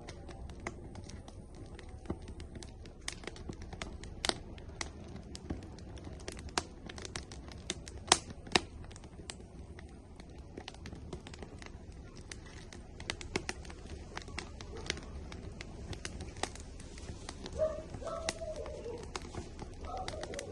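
Firewood burning in an outdoor grill, crackling with irregular sharp pops over a low steady rumble. The loudest pop comes about eight seconds in. Near the end a few short pitched calls come in.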